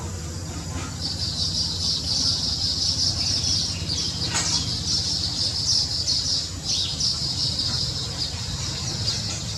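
Small birds chirping rapidly and continuously in a high-pitched chorus, starting about a second in and easing off near the end, with one brief sharp click partway through.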